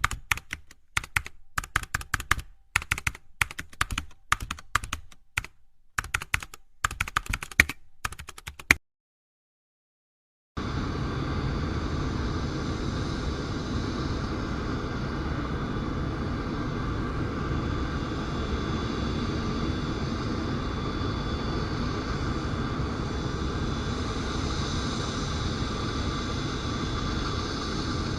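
Rapid clicks in irregular clusters, like keyboard typing, for the first nine seconds or so, then a brief silence. From about ten seconds in, a steady, even rushing noise sets in with faint steady high tones, constant in loudness.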